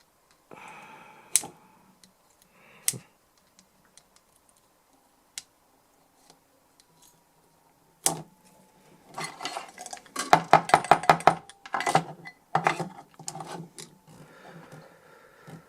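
Small metal tools clinking, tapping and scraping against a metal DI box while picking debris out of its input jack: a few sharp isolated clicks at first, then about halfway through a fast run of clicks and scrapes lasting several seconds.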